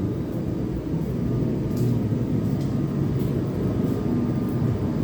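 Kubota tractor diesel engine idling steadily while it warms up after a cold start.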